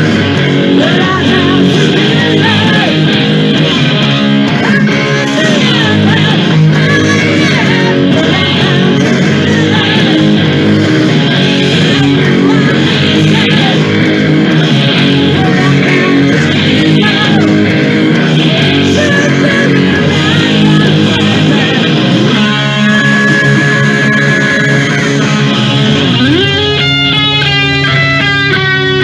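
Hard rock band playing live, electric guitar to the fore over bass and drums. About three-quarters of the way through the dense sound thins and the guitar holds a long note, then plays a quick run of notes near the end.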